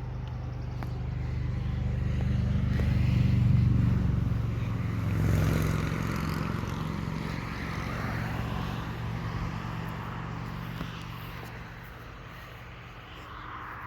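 A motor vehicle passing by: a steady engine hum that grows louder, peaks about four to five seconds in, then fades slowly away.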